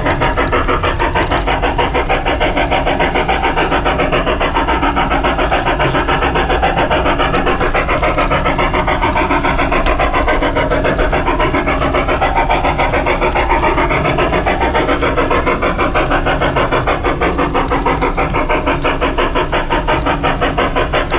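LGB Mogul G-scale model steam locomotive running along its track with a rapid, even pulsing rhythm over a steady low hum.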